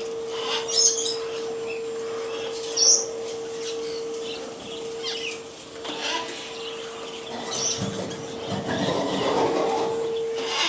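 Caged pet birds chirping and squawking in short, scattered calls over a steady hum.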